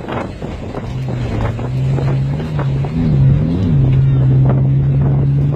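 A car engine running with a steady drone, its pitch wavering up and down briefly about halfway through, with wind buffeting the microphone.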